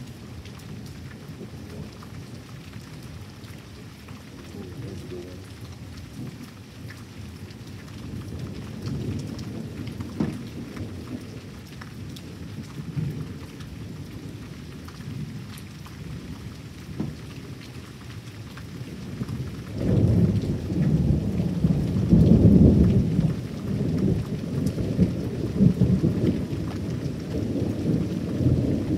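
Thunderstorm: steady rain falling, with rolling thunder rumbling throughout and a loud, long roll of thunder starting about twenty seconds in.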